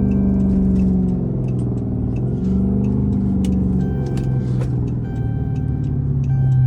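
Chrysler 300's 5.7 Hemi V8 running as the car rolls slowly, its low exhaust note easing off briefly about two seconds in and then picking up again.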